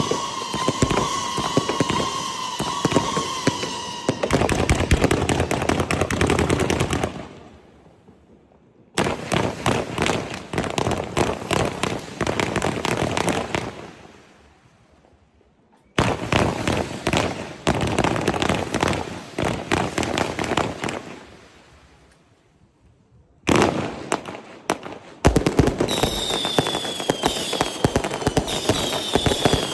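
Fireworks going off in rapid crackling barrages. There are several runs, each starting suddenly and fading out, with shrill whistling tones over the crackle at the start and again near the end.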